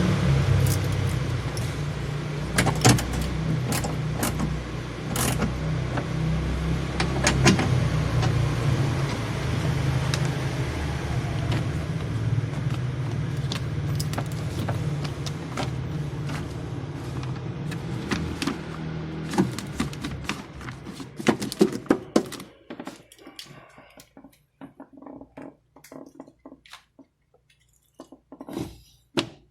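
A Nissan Cefiro A32 car running, a steady low rumble with occasional sharp clicks. The rumble dies away about 22 seconds in, leaving scattered clicks and thunks.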